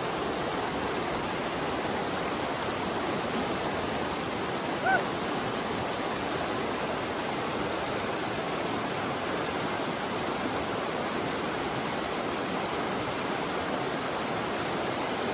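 Steady rushing of a shallow river flowing over its bed, with one brief, short voice-like sound about five seconds in.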